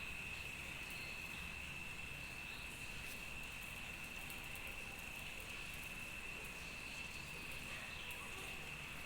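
An insect trilling, one steady high-pitched unbroken tone, over faint background hiss.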